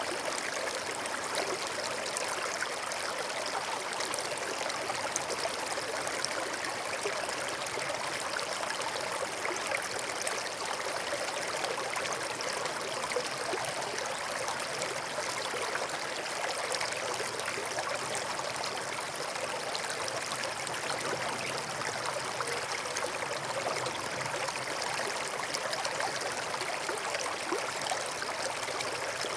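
A small forest stream running over stones: a steady rush and babble of water, with fine trickling and splashing throughout.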